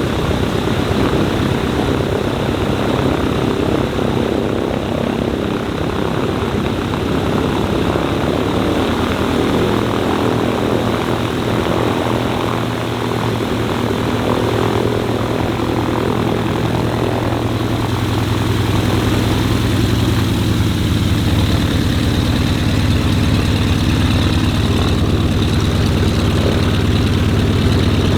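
Propeller-driven warbird's piston engine running steadily and loudly, its tone drifting a little lower in pitch about two-thirds of the way through.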